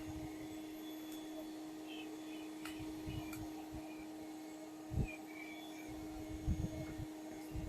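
Steady hum of a honeybee colony buzzing around its opened tree-hollow nest, with a few dull knocks about five and six and a half seconds in and faint high chirps.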